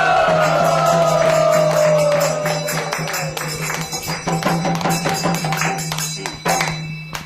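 A room of people responds together, starting with one long group call that slowly falls in pitch, followed by rhythmic clapping with a bright jingling. The sound stops abruptly near the end.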